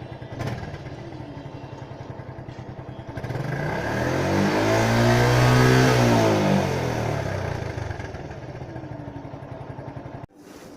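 Motorcycle engine running with a steady, even pulse. About three seconds in, a much louder engine sound swells, peaks and fades over about four seconds, like a vehicle passing close by, and the steady running then carries on.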